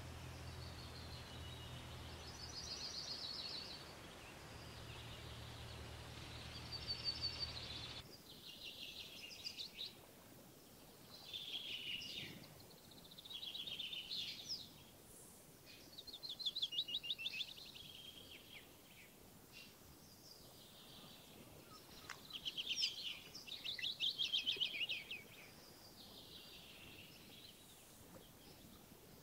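Small songbirds singing, short trilled phrases repeating every couple of seconds. A low steady hum runs underneath and stops about eight seconds in.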